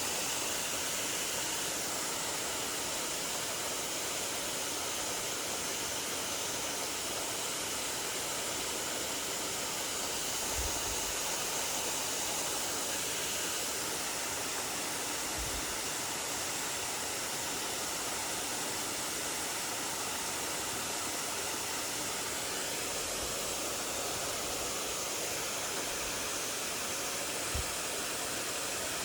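Valley stream water rushing steadily over rocks, a constant even rush, with a few faint low bumps.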